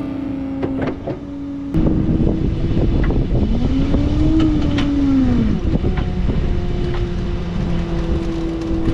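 Guitar music cuts off, then a vehicle engine comes in over a loud rough rumble. The engine revs up and eases back down, then holds a steady note.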